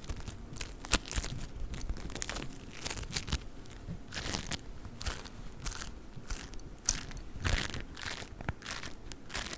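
Play foam, the kind made of tiny foam beads, squeezed and kneaded close to the microphone, crunching and crackling in irregular bursts of small snaps.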